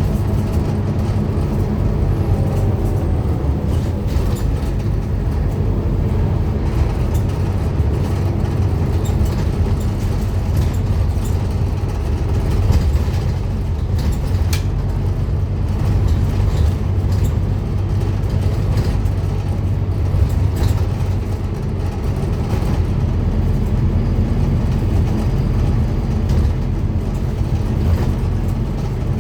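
Scania N230UD Omnicity double-decker bus's five-cylinder diesel engine running steadily under way, with occasional short knocks and rattles.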